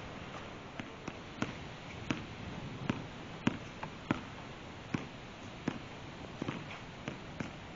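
A basketball being dribbled on a hard court, a sharp bounce about every half to three-quarters of a second, over a steady background hiss.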